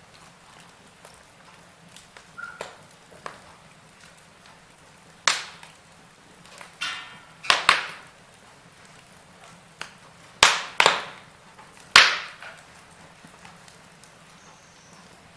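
Wood fire crackling, with irregular sharp pops and snaps, several of them loud, and a brief fizzing crackle about seven seconds in.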